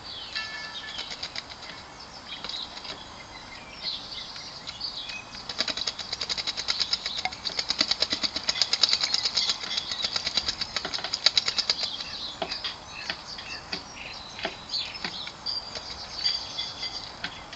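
A blackbird bathing in a bird bath: a long run of rapid wing-fluttering and splashing, strongest from about four to twelve seconds in. Other garden birds call around it.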